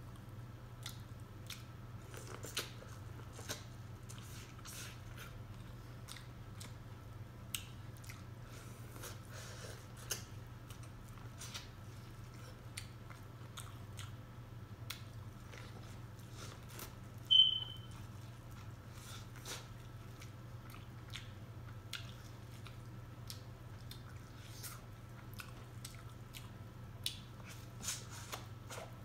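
A person chewing food close to the microphone, with small wet mouth clicks and smacks, over a steady low hum. One short high-pitched ping about two-thirds of the way through is the loudest sound.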